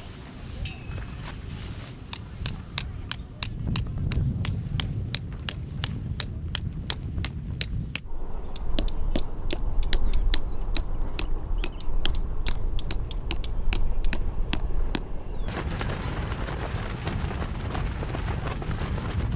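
Rapid, even hammer-like strikes, about three or four a second, each with a brief high ring, over wind rumbling on the microphone. The strikes stop near the end, leaving only wind noise.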